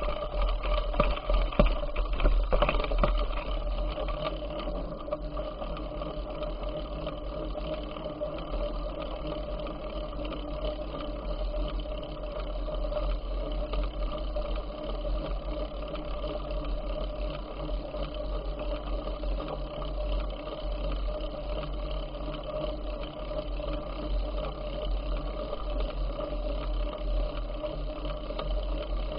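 Bicycle riding noise picked up by a bike-mounted or handheld camera: a deep, steady wind rumble on the microphone with a constant mechanical hum from the moving bike. Rattling clicks and knocks come in the first three seconds, then the noise settles.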